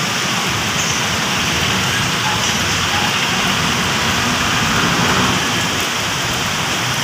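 Heavy rain pouring down and drumming on surfaces, a steady even hiss.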